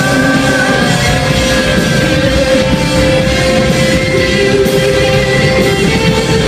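Rock band playing a song, with singing and long held notes over a steady full-band backing.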